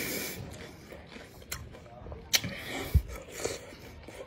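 Close-up chewing of raw bilimbi fruit: wet mouth smacks and a handful of sharp clicks, with a low thump about three seconds in.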